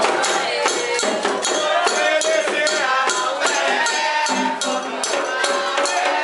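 Singing voices over hand percussion, with rattles and drum strokes in a steady rhythm: a Candomblé ceremonial song.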